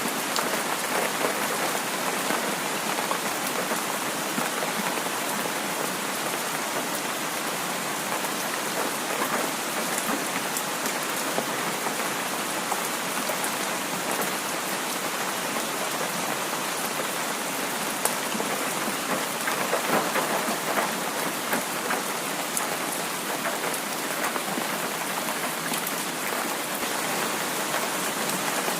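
Heavy rain falling steadily, a dense even hiss of drops with scattered sharper taps.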